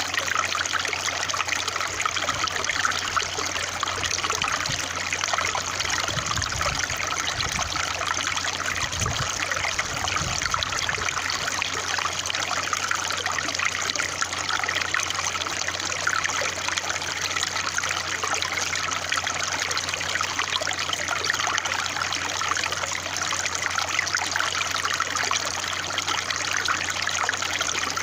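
Running water trickling steadily, an even, unbroken babble.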